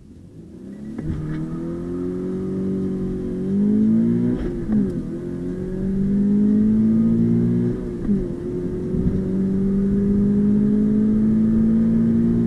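2020 Subaru BRZ's 2.0-litre flat-four engine pulling hard from a standstill on a 0-to-60 run, heard from inside the cabin. Its pitch climbs steadily, with two upshifts of the manual gearbox about 4½ and 8 seconds in, each a brief dip before the revs rise again.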